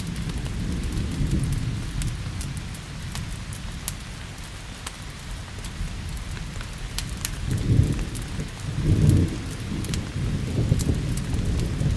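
Thunderstorm with steady rain and low rolling thunder that swells twice in the second half, mixed with the scattered sharp pops of a crackling wood fire in a fireplace.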